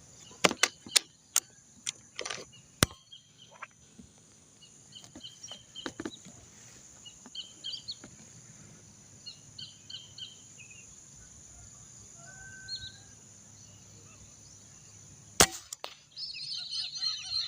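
Small birds chirping in short, high repeated notes. Scattered sharp clicks and knocks fall in the first few seconds, and one loud click comes about fifteen seconds in. A denser burst of bird chatter starts near the end.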